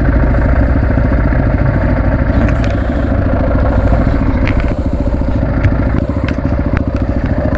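Honda XR650R's single-cylinder four-stroke engine running steadily at low revs, with a few sharp clicks and scrapes over it.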